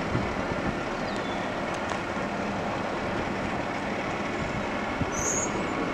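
Steady rolling noise of a CN intermodal freight train that has just cleared the crossing and is moving on down the line, with one short high chirp about two seconds in.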